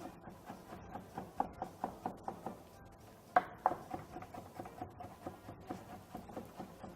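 Kitchen knife slicing courgettes on a chopping board: a run of quick, light taps, about four a second, with two louder knocks about three and a half seconds in.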